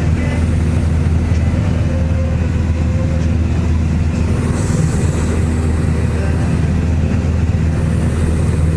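Single-engine Cessna's piston engine and propeller droning steadily, heard inside the cockpit.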